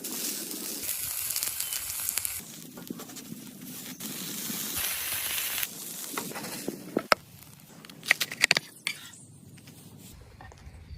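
Cooking sounds: stretches of hissing and crackling, then a quick run of sharp clicks and knocks about seven to eight seconds in.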